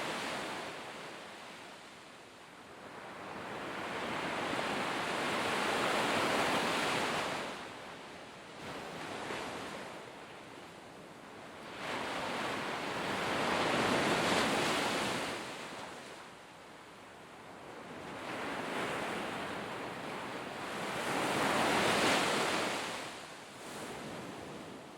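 Sea waves breaking and washing up the shore, three surges about eight seconds apart, each swelling and then falling away.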